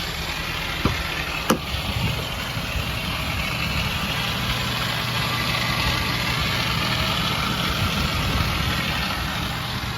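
Ford 6.7L Powerstroke V8 diesel idling steadily. Two sharp clicks come about a second in and again half a second later.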